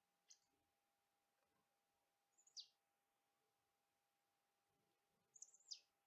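Small songbird calling: a short high call just after the start, a high call sweeping downward about two and a half seconds in, and near the end a quick cluster of notes ending in another downward sweep.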